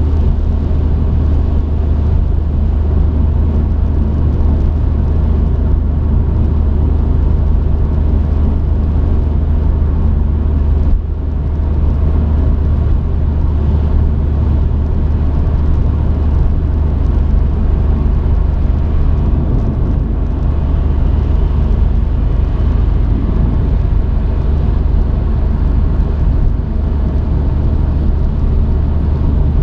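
Truck engine and road noise heard from inside the cab while driving: a steady low drone, with a brief drop in level about eleven seconds in.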